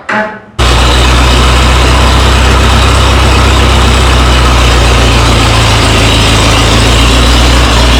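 Minneapolis Moline tractor engine, a loud steady low drone that starts abruptly about half a second in.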